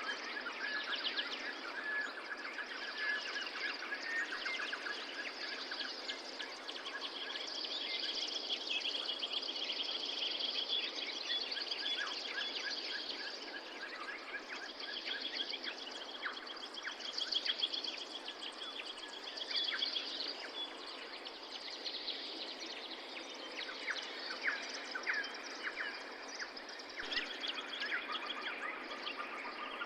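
Several songbirds singing in a forest, with fast trills and chirps overlapping one another, over a steady background hiss.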